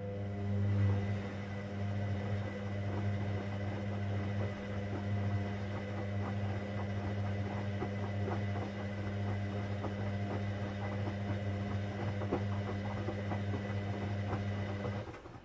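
Hoover Dynamic Next washing machine's drain pump running: a steady low hum with irregular gurgling clicks and rattles of water and air passing through it, cutting off suddenly near the end as the pump stops.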